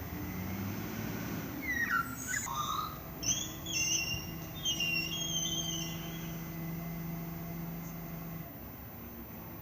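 A garbage truck's engine running with a steady low hum, while a series of high, gliding chirps and whistles comes in about two seconds in and fades out around six seconds.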